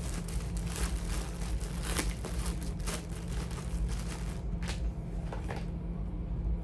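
Rustling, crinkling and light clicks of charging cords and their plugs being handled and sorted, over a steady low hum.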